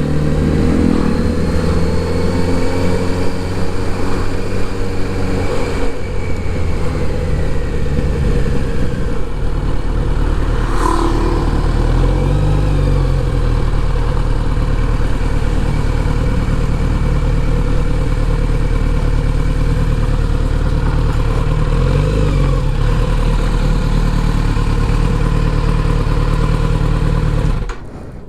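Kawasaki Z900RS inline-four engine running under way. The engine note eases down over the first few seconds, then holds steady at cruising speed, and cuts off abruptly just before the end.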